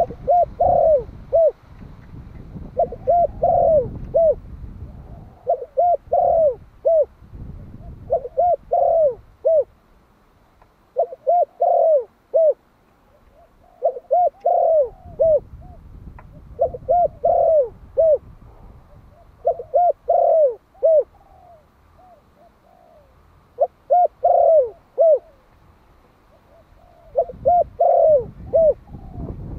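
Male spotted dove of the Malai strain cooing its calling song: phrases of three or four short, hooting coo notes, repeated about every two to three seconds, some ten phrases in all.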